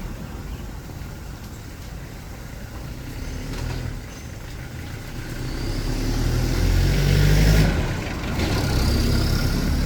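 Street traffic: a motor vehicle passes close by, its engine growing louder to a peak about seven and a half seconds in over a steady low rumble.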